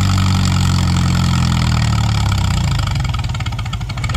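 Oliver Super 66 tractor engine pulling hard under the weight of a pulling sled in first gear. After about two seconds it lugs down, and its firing slows into separate low beats as the tractor bogs to the end of its pull.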